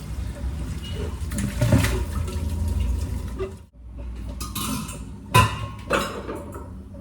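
Tap water running into a kitchen sink while dishes are washed, stopping abruptly; then a couple of sharp knocks, like a dish or pan set down.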